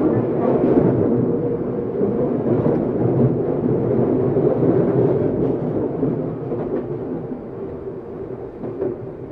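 Interior running noise of a Tokyu 7700 series motor car: a steady rumble of wheels on rail and traction motors, with a few faint ticks, getting a little quieter toward the end.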